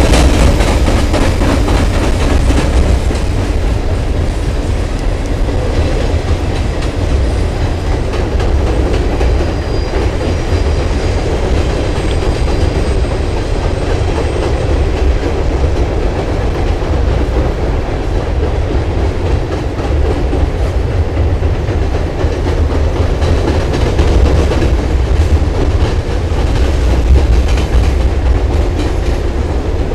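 Norfolk Southern freight train of coal hopper and gondola cars rolling across a steel girder railroad bridge: a steady, heavy rumble of wheels on the rails.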